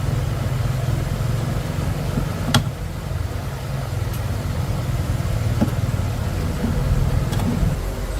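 An engine running steadily with a low rumble, with a few sharp clicks about two and a half, five and a half and seven and a half seconds in.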